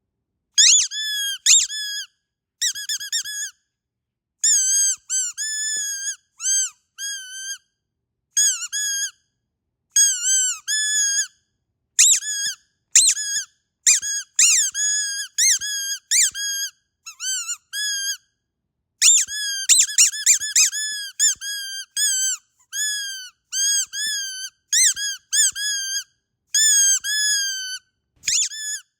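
Squeaky dog toy squeezed over and over: runs of short, high-pitched squeaks that bend in pitch, separated by brief gaps of dead silence.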